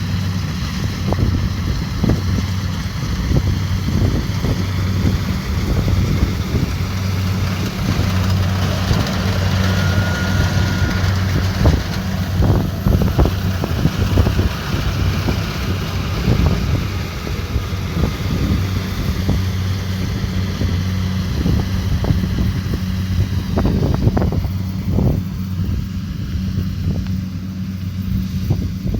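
Kubota DC70 Pro combine harvester running steadily with a constant low diesel hum, with irregular clattering knocks from the machine throughout.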